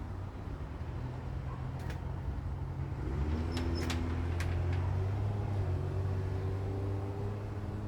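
A low, steady machine rumble that grows louder about three seconds in, with a few sharp clicks in the middle.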